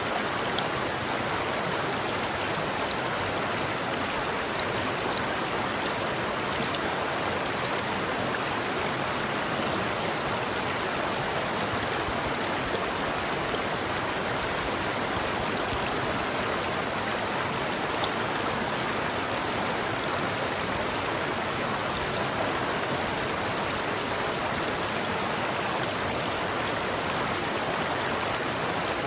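River water flowing and splashing over rocks: a steady, even rush with faint droplet ticks.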